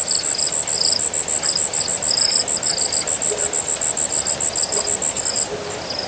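Night chorus of insects and frogs: a rapid, evenly pulsed high trill that stops about five and a half seconds in, with other shorter high chirps and a few short low calls, over a steady hiss.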